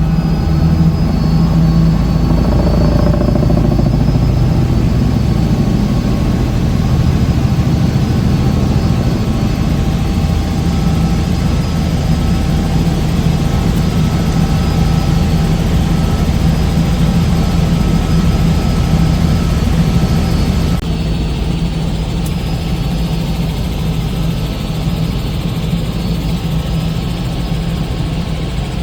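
Helicopter in flight: a loud, steady engine and rotor drone, which shifts slightly about two-thirds of the way through.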